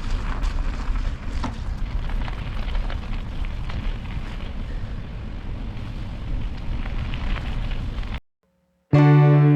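Wind buffeting the microphone and tyre noise from a bicycle riding on a road, a steady low rumble with scattered small crackles. It cuts off abruptly about eight seconds in, and after a moment of silence guitar music with effects starts near the end.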